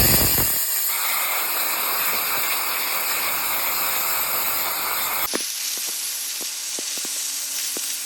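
CNC plasma torch cutting 1/4-inch steel plate: a loud, steady hiss as the arc cuts. About five seconds in it changes to a thinner, higher hiss with faint regular ticks.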